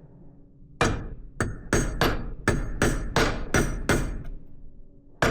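Hammer blows on a chisel set against the lip of a stuck wheel bearing, metal on metal with a short ring after each strike, driving the bearing off the spindle. About a second in the blows start, quicken to three or four a second, then stop with a second of quiet near the end.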